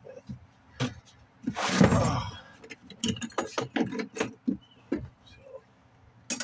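Metal sockets and tools clinking and rattling as they are sorted by hand, with a dense jumble of rattling about two seconds in, then a run of sharp clicks and clinks.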